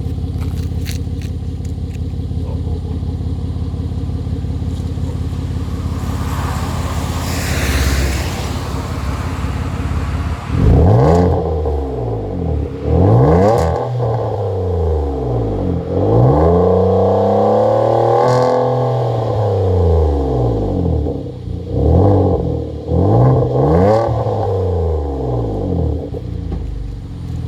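Kia K7 with a straight-piped exhaust from the mid-pipe back, idling with a low rumble, then revved repeatedly from about ten seconds in. There are several short blips and one longer rev held for a few seconds, the pitch rising and falling with each.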